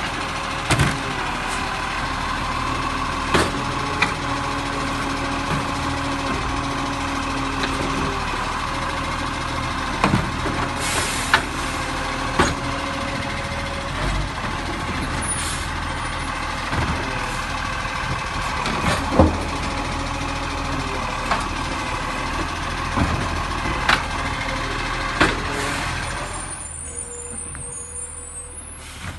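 Garbage truck engine running steadily, with scattered clunks and knocks and a short hiss of air about eleven seconds in. The truck's sound fades away near the end.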